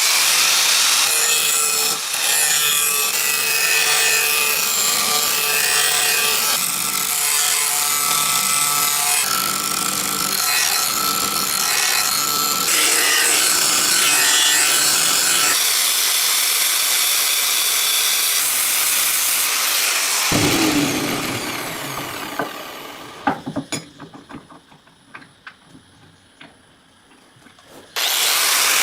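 An electric grinder working steel, a loud, steady grinding noise for about twenty seconds. The motor then winds down with a falling pitch, a few light clicks and knocks follow, and grinding starts again near the end.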